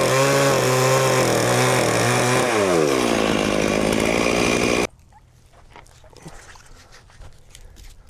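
Chainsaw engine running, its pitch dropping at about two and a half seconds as the revs come down. It holds at the lower speed and is shut off abruptly about five seconds in, leaving faint rustling and light footsteps.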